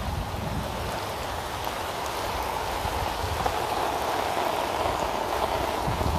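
Steady rain falling: an even hiss of drops with a low rumble beneath it.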